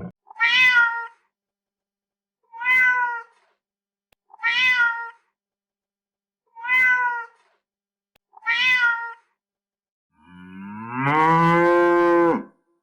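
Animal calls: five short, high cries, each rising then falling in pitch, about two seconds apart, then one longer, much lower drawn-out call near the end.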